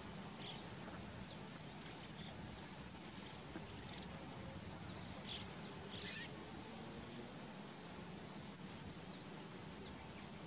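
Wild birds calling: many short, high chirps scattered throughout, with a few louder, harsher calls around the middle, the loudest about six seconds in. A faint steady low hum runs underneath.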